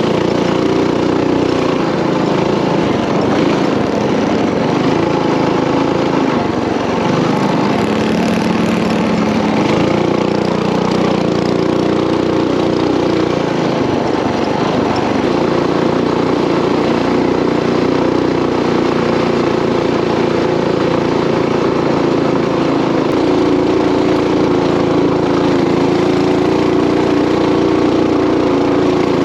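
Coleman mini bike's small single-cylinder engine running steadily while riding along the trail, its pitch shifting only slightly.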